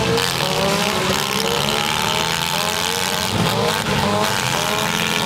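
Several front-wheel-drive demolition derby cars' engines revving over and over, with repeated rising pitch over a steady low rumble.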